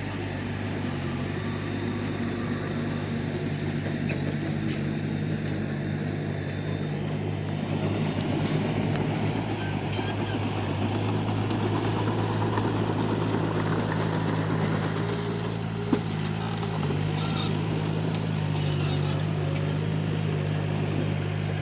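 Komatsu D31P bulldozer's diesel engine running steadily at a constant pitch, with one sharp knock about sixteen seconds in.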